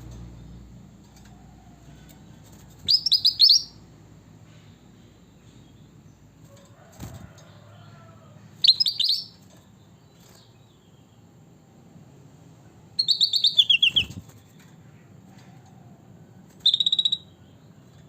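A kutilang batik (bulbul) singing four short phrases of quick, high repeated notes several seconds apart. The third phrase is the longest and ends in a falling run.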